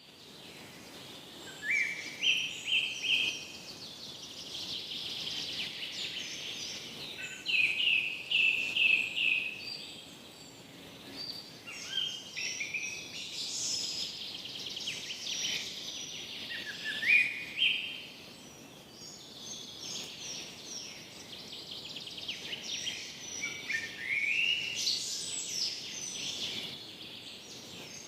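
Songbirds singing in a morning chorus, with phrases of rising notes and rapid trills repeating every few seconds over a faint steady breeze.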